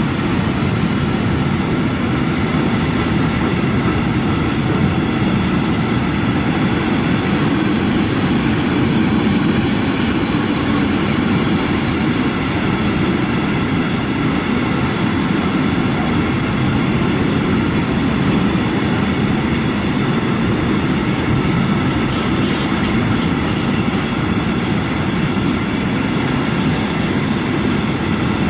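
Container freight train wagons rolling past at speed on the adjacent track, a loud steady rumble of wheels on rails with no break.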